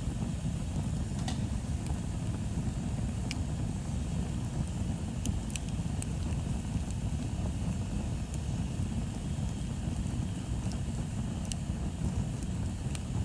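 Bonfire burning: a steady low rumble with sharp wood crackles and pops every second or two, about eight in all.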